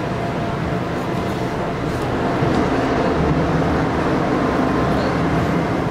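Passenger train running at speed, heard from inside the car: a steady rumble of wheels and running gear with a faint steady whine over it.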